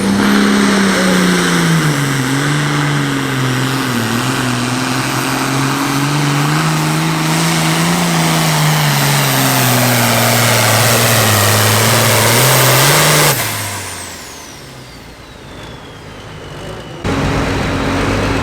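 Super Farm class pulling tractor's turbocharged diesel engine running hard under load down the track, its pitch wavering with a high turbo whistle over it. About thirteen seconds in the engine cuts off suddenly and the turbo whine winds down in falling pitch; near the end another engine idles steadily.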